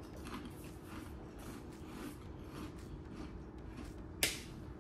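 A person chewing a mouthful of Peatos Crunchy Pizza Rings: a run of faint, irregular crunches, with one sharp click about four seconds in.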